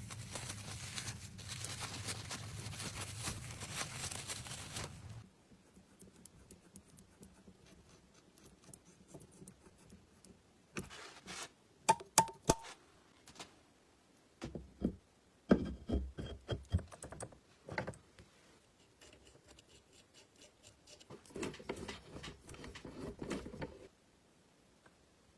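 A small power tool runs steadily and stops abruptly about five seconds in, followed by scattered clicks, taps and knocks of small metal parts and tools being handled.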